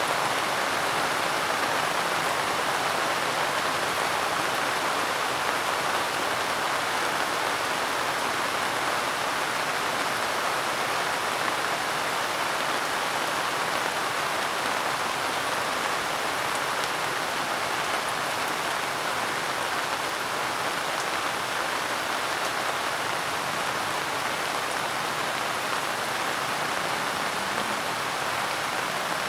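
Steady, gentle rain falling, an even hiss with no breaks or thunder.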